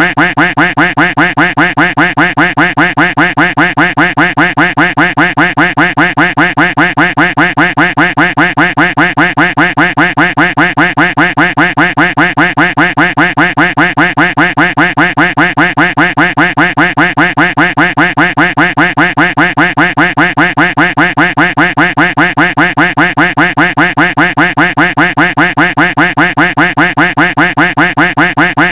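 A duck quack sound effect looped without a break, the same quack repeating evenly at about four a second at a steady, loud level.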